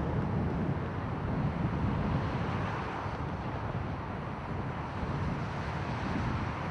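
Distant jet-engine rumble of a Boeing 787-8 airliner, a steady rushing noise mixed with wind buffeting the microphone.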